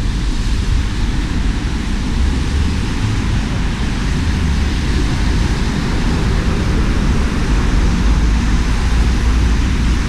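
Steady rushing noise of a wet street in the rain, with a deep rumble underneath.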